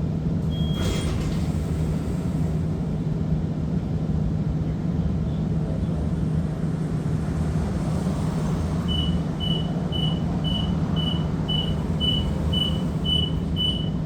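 Inside a streetcar waiting at a stop: a steady low hum from the car, a single short beep about a second in, then from about nine seconds a string of short high beeps at about two a second, the warning that the doors are about to close.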